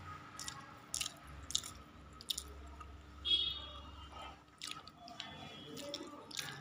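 A person chewing a mouthful of foxtail millet tomato rice, with soft wet smacks and clicks of the mouth every second or so.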